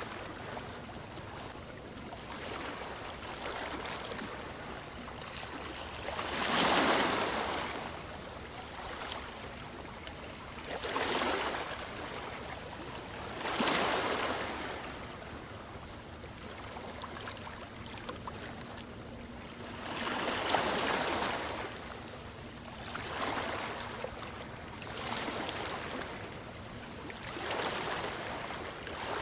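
Ocean waves washing onto a shore: a steady hiss of water with about seven surges that swell and fade every two to six seconds, the loudest about seven seconds in.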